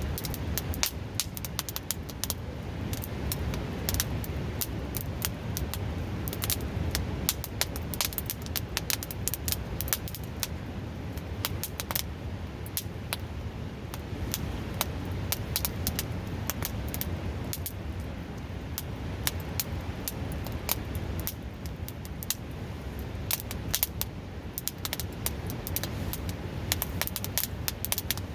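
Wood fire crackling with frequent sharp pops at irregular intervals, over the steady rush of a nearby river.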